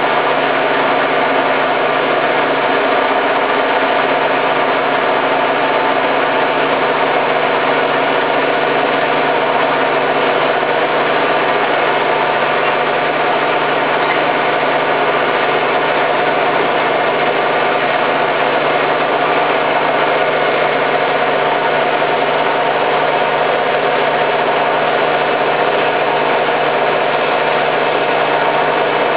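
Hoover Time Manager H130E washing machine spinning at a steady high speed, its drum motor giving an even pitched hum that does not change or pause.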